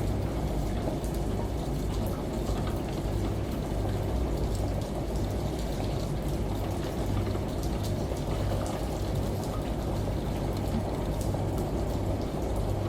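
Steady layered water ambience: shower spray and falling rain with scattered faint drips over a low, steady washing-machine hum.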